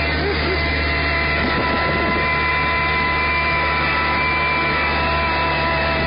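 Farm tractor engine running steadily at constant speed, a loud even drone with a steady whine laid over it.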